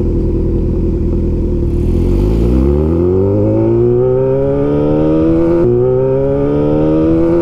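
Honda CB1000R inline-four engine idling, then pulling away from a stop: the engine note climbs steadily, with a short break in it about five and a half seconds in before it keeps rising.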